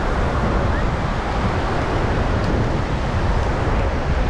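Atlantic surf washing steadily on the beach, mixed with wind buffeting the microphone.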